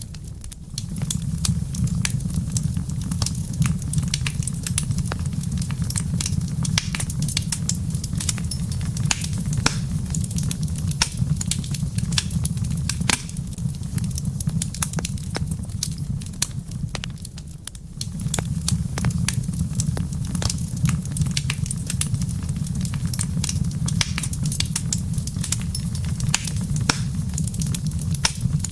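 Wood fire crackling in a fireplace: many sharp pops and snaps over a steady low rumble of the burning fire, which briefly drops away twice.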